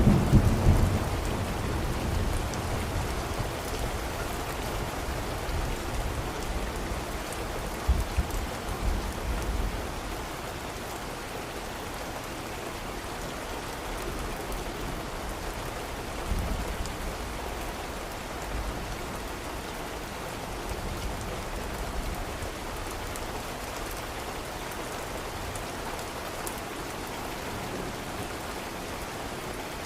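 Steady rain falling on surfaces, an even hiss. A low rumble of thunder dies away in the first second or two, with shorter low rumbles about eight and sixteen seconds in.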